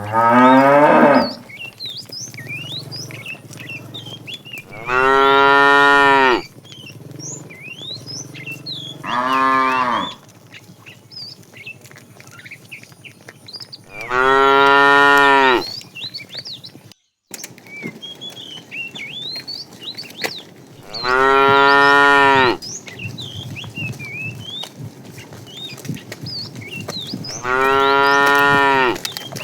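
Cattle mooing: six long moos a few seconds apart, the first rising sharply in pitch, with small birds chirping faintly between them.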